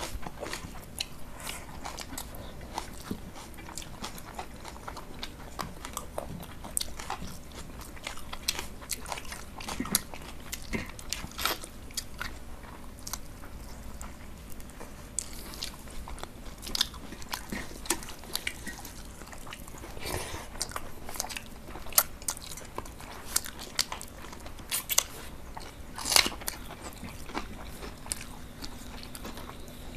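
Close-miked eating sounds of two people eating chicken curry and rice by hand: chewing and wet mouth smacks with irregular sharp clicks.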